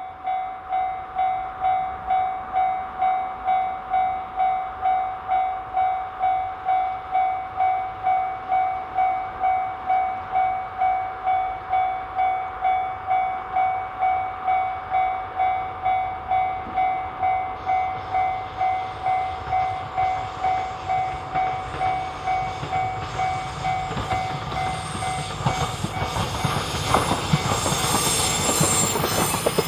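Level-crossing warning bell ringing steadily in even pulses, just under two a second. A train comes in under it, growing from about two-thirds of the way through and running past with loud wheel clatter near the end.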